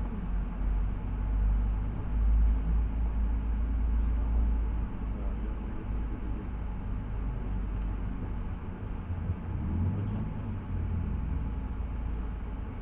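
Inside a LiAZ 6213 articulated city bus on the move: a steady low engine and road rumble, heavier for a few seconds near the start and then easing off.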